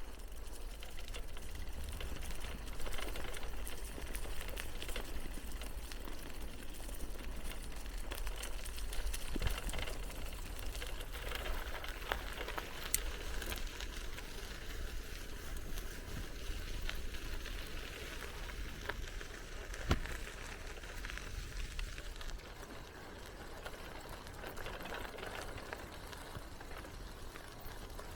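Bicycle in motion: steady tyre and riding noise with scattered clicks and rattles, and a low wind rumble on the microphone that eases about two-thirds of the way through.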